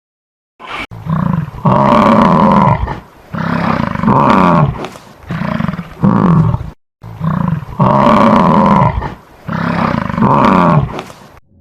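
A large animal roaring in a series of loud roars, each about a second long, with a short break about seven seconds in.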